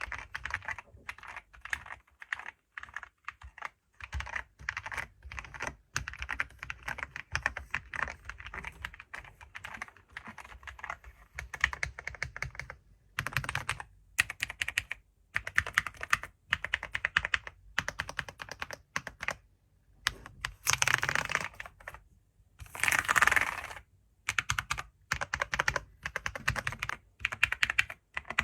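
Typing on a computer keyboard: fast runs of keystrokes broken by short pauses, with two denser, louder flurries of keys about two-thirds of the way through.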